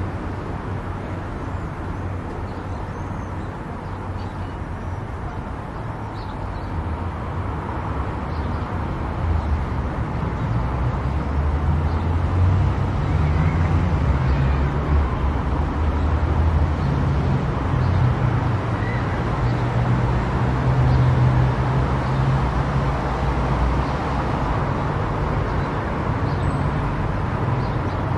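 Car driving on an expressway: steady road and tyre noise with a low engine drone, which grows louder about a third of the way in and stays up.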